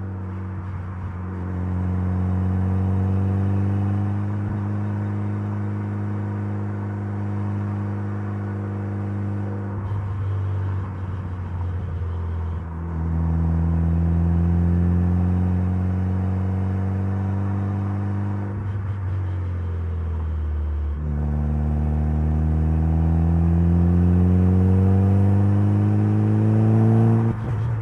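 Mitsubishi Lancer Evolution's 4G63 turbocharged 2.0-litre inline-four pulling through the gears, its pitch holding or slowly climbing in each gear, with short breaks at several gear changes.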